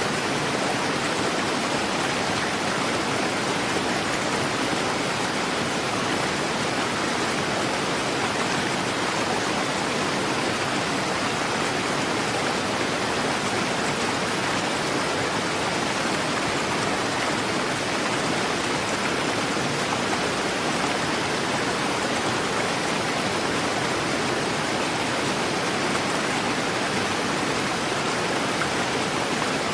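River water rushing swiftly, a steady, unbroken roar of flowing water.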